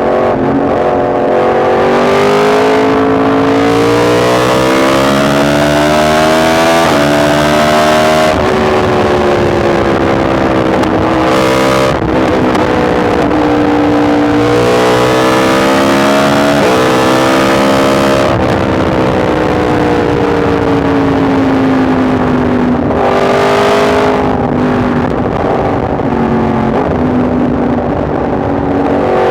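Yamaha MT-10 SP's crossplane inline-four engine pulling hard and easing off while riding. The note climbs, then drops abruptly about eight seconds in, again near eighteen seconds and once more near twenty-four seconds at each upshift, and falls away gradually in between, over a steady rush of wind.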